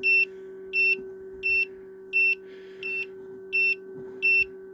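Small egg incubator's alarm beeping, a short high beep about every 0.7 seconds, seven times, over a steady hum: the alarm warns that the temperature has dropped too low while the incubator is open for candling.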